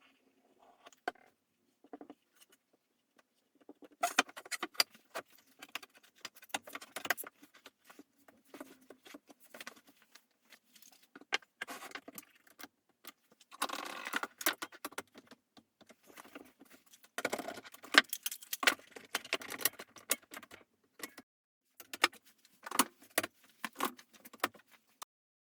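Small hard objects clicking and clinking as they are handled, in irregular bursts of rapid ticks and knocks with short pauses between.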